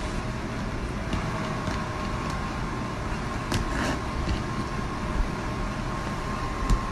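Steady background noise with a faint continuous tone and a few light clicks.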